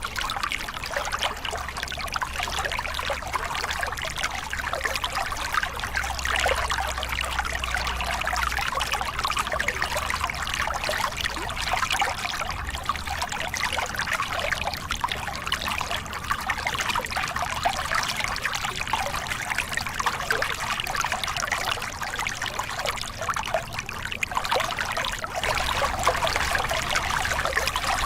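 A small cascade on a forest river: water pouring and splashing over the drop in a steady rush, with a faint low rumble underneath that swells and fades.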